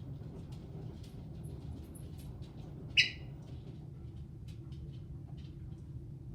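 Caique parrot giving a single short, sharp squawk about three seconds in, with faint scattered clicks and taps around it.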